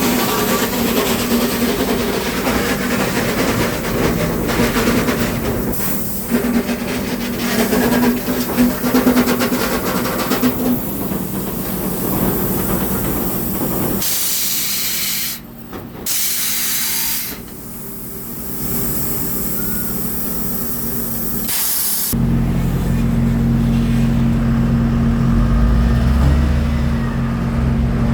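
Sawmill machinery running, the sound changing several times: a clattering mechanical din with a steady hum, then a loud hiss around the middle, then a steady low engine hum near the end.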